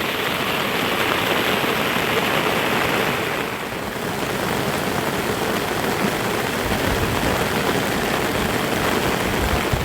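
Steady heavy rain falling, a dense even hiss. A couple of low thuds near the end.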